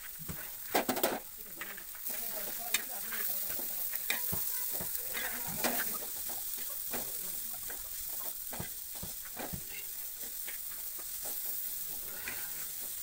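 Chopped onion and tomato sizzling in hot oil in a black wok, with a metal spatula scraping and tapping against the pan as it is stirred. A cluster of louder knocks comes about a second in, as the tomato is pushed off a wooden chopping board into the pan.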